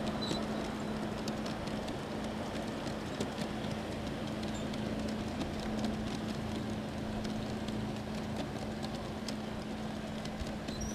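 Train running steadily: a constant low hum under a rumble, with many light, irregular clicks like wheels over rail joints.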